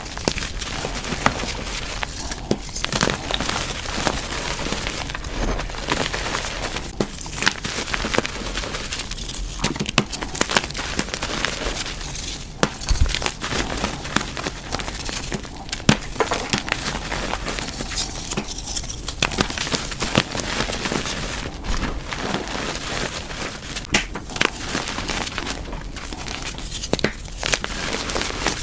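Reformed gym chalk blocks being crushed and crumbled by hand: a continuous dry crunching and crackling with many sharp little snaps.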